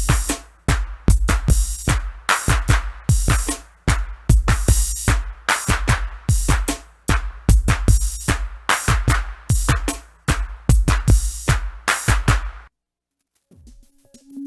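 Electronic music played on an UNO Drum drum machine: a busy, fast pattern of deep kicks and bright noisy hits that cuts off suddenly near the end. It gives way to a quieter passage of held synth tones with lighter hits.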